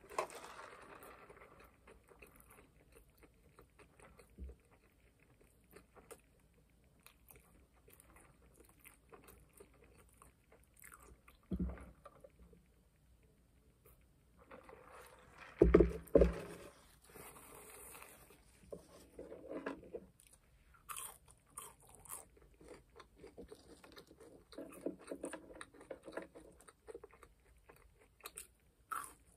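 Close-up chewing of a McDonald's burger and fries, soft wet mouth noises throughout. About halfway there is a sip through a straw, and a few sharp loud knocks, the loudest a double knock.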